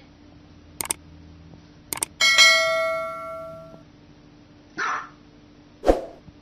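A small white dog barks twice, single sharp barks about a second apart, in the second half. Before that come a few quick clicks and a single bell-like chime about two seconds in that rings and fades over a second and a half.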